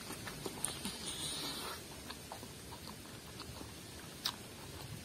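Close-up mouth sounds of someone chewing a mouthful of rice and curry, with scattered small wet clicks, and one sharper click about four seconds in.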